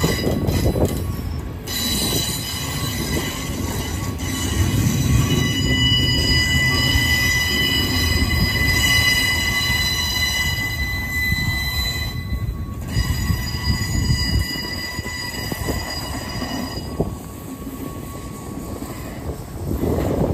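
Equipment train of flatcars and rail maintenance machines rolling past, its steel wheels rumbling on the rail. A steady high squeal from the wheels sets in about two seconds in, drops out briefly past the middle, and fades a few seconds before the end.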